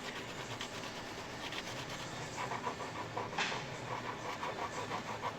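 Hand sanding with a sanding block over cured resin-paste filler on a fiberglass deck: short back-and-forth scraping strokes at a steady rhythm of a few a second, louder and more regular in the second half.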